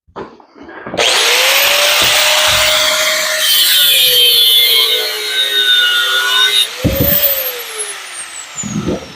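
A handheld electric grinder starts about a second in and cuts into metal, its pitch sagging under load. It is then switched off and winds down with a steadily falling whine, with a couple of knocks near the end.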